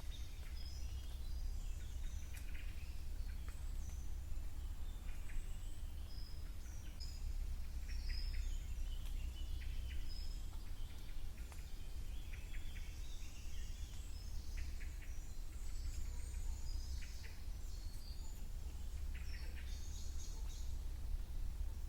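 Several wild birds singing and calling in spring woodland, short chirps and brief phrases coming one after another throughout, over a steady low rumble.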